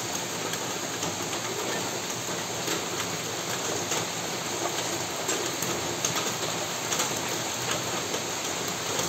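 Steady rain falling: an even hiss with scattered taps of drops.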